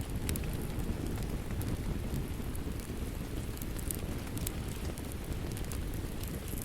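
Steady rain with a wood fire crackling over it: a dense, even rush of rain beneath irregular sharp pops and crackles from burning logs.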